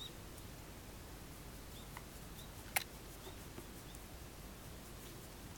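Quiet room hiss with one sharp click about halfway through and a few faint, brief high chirps.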